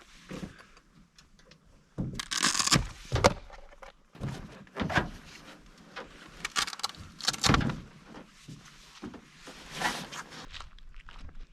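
Clunks, knocks and scraping rustles of camping gear being handled and set up, irregular, with the busiest stretch from about two seconds in.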